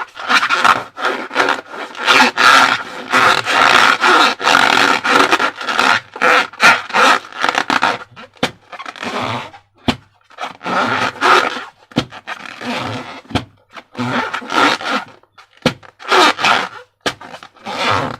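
Slime being worked in and out of rubber balloons: repeated squelching, rubbery scraping and squeaking strokes, with sharp clicks between them.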